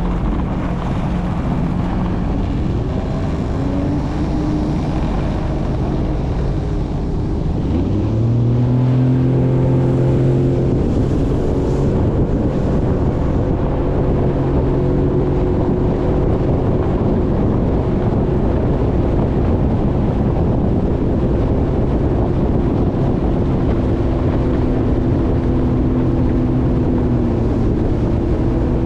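Jet ski engine speeding up, its pitch climbing about two seconds in and again around eight seconds in, then running steadily at speed.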